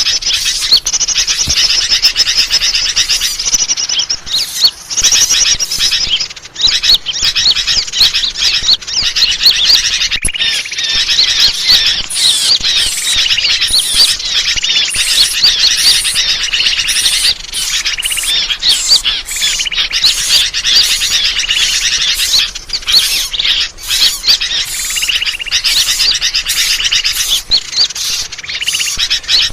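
A dense, continuous chorus of small birds chirping and trilling: rapid high calls layered on top of each other without a break. This is a bird-lure (suara pikat) call meant to draw birds in.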